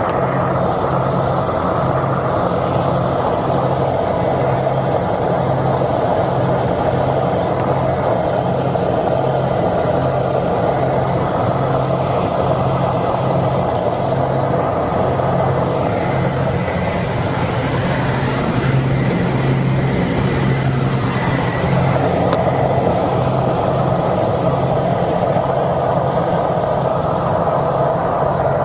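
Steady, loud vehicle noise heard from inside, a dense roar with a low hum pulsing in a regular beat.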